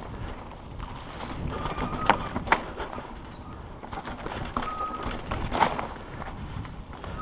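Mountain bike rattling and clunking over a rough, rocky trail under a steady rumble of tyres and wind, with sharp knocks about two seconds in and again past five seconds, and a few short squeaks.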